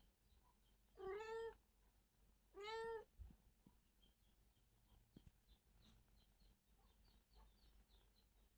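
A cat meowing twice: two short calls about a second and a half apart.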